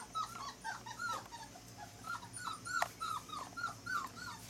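Four-week-old Labrador retriever puppy whimpering: a string of short, high squeaks, about two or three a second.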